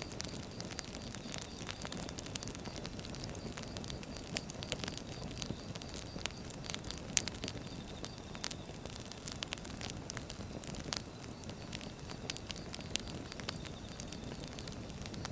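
Firewood burning: a steady low rush of flames with frequent sharp, irregular crackles and pops from the wood.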